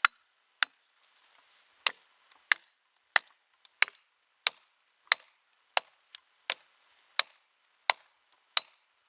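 Steady hammer blows, about one and a half a second, each with a short metallic ring.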